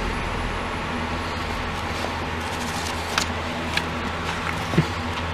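Steady low hum and hiss of background noise, with a few light clicks and taps about three seconds in and again near the end.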